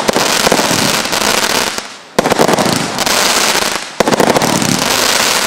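Hurricane Force consumer firework going off: a dense, rapid crackle of pops in rounds that fade away and then start again suddenly, about two seconds in and again at four seconds.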